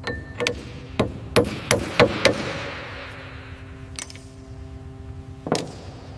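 Metal tapping and clinking: a quick run of about seven sharp, ringing strikes, then two more single strikes later on, over a faint steady hum.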